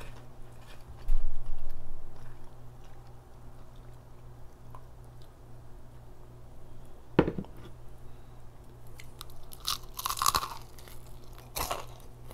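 Bites into a piece of crispy fried chicken, crunching and chewing close to the microphone, in bursts over the last few seconds. A low thump comes about a second in, and a single sharp click a few seconds later.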